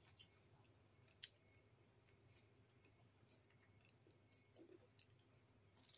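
Near silence over a faint low hum, broken by scattered small mouth clicks and smacks of someone chewing fried fish eaten by hand; the sharpest click comes about a second in, with a few more near the end.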